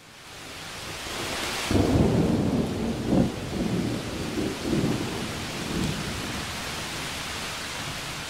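Heavy rain pouring down in a thunderstorm. A long roll of thunder rumbles in about two seconds in and dies away over the next few seconds.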